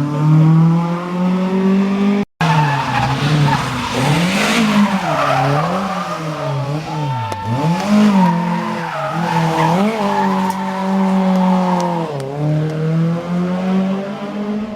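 Historic rally car's engine revving hard through a special stage, its pitch swinging rapidly up and down several times in the middle as the driver works the throttle and gears, with tyre squeal as the car slides through the corners. The sound breaks off for an instant about two seconds in.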